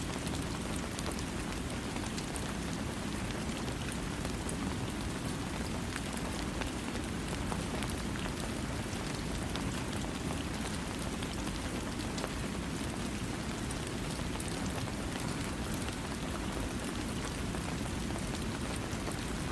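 Steady rain falling on a surface: a dense, even patter with many fine drop ticks over a deeper rumble, without thunder.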